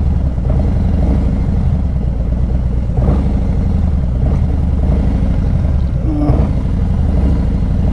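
Harley-Davidson V-twin motorcycle engine idling steadily with a low rumble while the bike waits to pull out.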